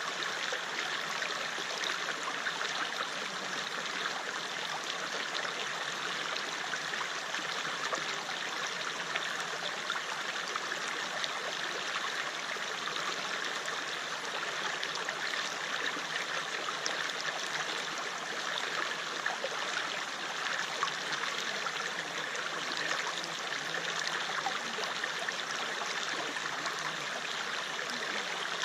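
River water flowing steadily over rocks: an even rushing hiss with small splashes and babbles throughout.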